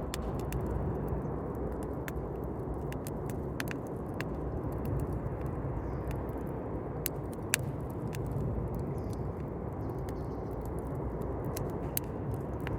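Campfire burning: a steady low rush of the flames with irregular sharp pops and crackles of burning wood, a few of them louder, one standing out about seven and a half seconds in.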